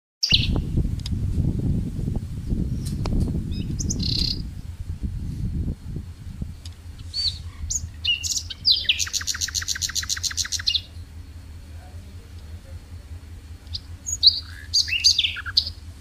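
Small songbirds chirping, with a fast trill of about nine notes a second in the middle and a few sharp calls near the end. A low rumble, louder than the birds, fills the first six seconds.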